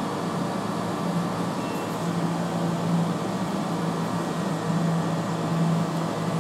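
Southern electric passenger train pulling out along the far track: a steady low hum over a continuous rumble, the hum growing a little stronger about two seconds in.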